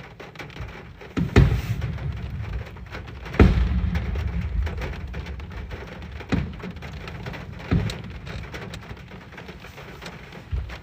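Fireworks shells bursting with four sudden low booms, each trailing off in a rumble, the second, about three and a half seconds in, the loudest. They are heard from inside a car, with rain falling steadily on the car throughout.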